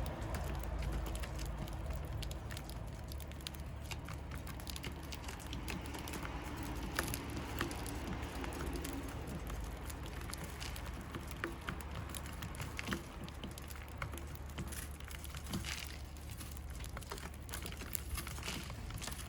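Scattered light taps and clicks from a flock of Eurasian tree sparrows, over a steady low hum.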